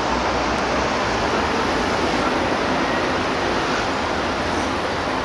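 Steady rushing wind noise on the microphone, even throughout with no distinct events.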